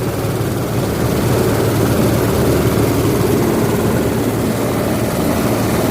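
Cocopeat grinding machine (coconut-husk shredder) running steadily with a loud, even mechanical drone.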